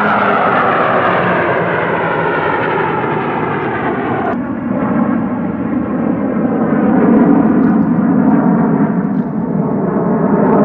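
Aircraft flying past at an air show, loud and continuous, its engine sound falling in pitch through the first few seconds. About four seconds in the sound changes abruptly and turns lower and duller.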